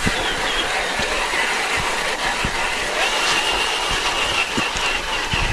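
Traxxas TRX-4 RC crawler driving over the trail: its electric motor and gears run with a steady whine and clatter, the whine holding a high steady pitch from about halfway through, over scattered low knocks.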